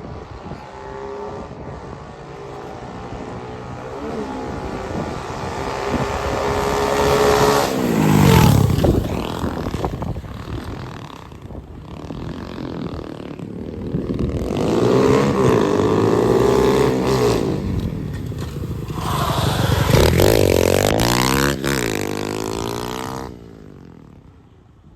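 Single-cylinder engine of an SSR 125 pit bike revving up through the gears as the bike is ridden. It passes close by twice, about 8 and 20 seconds in, with the pitch dropping sharply each time it goes past. The sound cuts off suddenly near the end.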